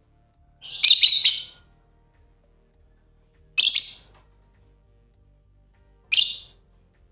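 Lovebird giving three shrill chirping calls about two and a half seconds apart, the first the longest at about a second.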